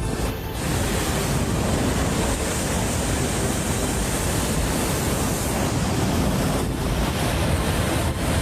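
Steady, loud rushing of wind and surf, with wind buffeting the microphone.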